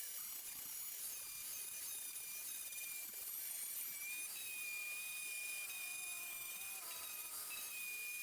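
Power grinder running on welded sheet-metal body repair, a steady high whine with a hissing edge.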